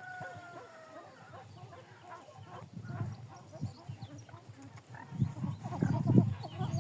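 Pheasants calling, a drawn-out note slightly falling in pitch at the start, with scattered knocks and rustling that get louder over the last two seconds.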